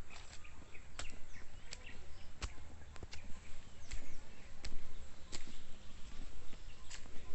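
Forest birds calling with short, high chirps. Sharp clicks come every second or so, over a low rumble.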